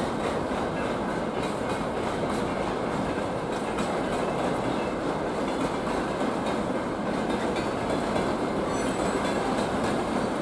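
A freight train of tank wagons rolling steadily past: a continuous rumble of steel wheels on the rails, with faint clicking as the wheels cross the rail joints.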